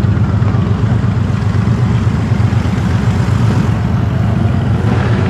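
Car engine running with a steady low rumble and road noise as the car drives along.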